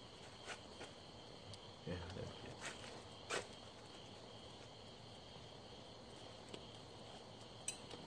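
Faint steady insect trill, typical of crickets, with a few light clicks and a soft low knock about two seconds in.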